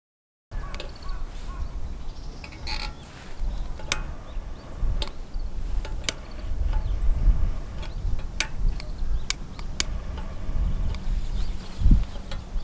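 Campfire crackling, with sharp, irregular pops over a low, uneven rumble.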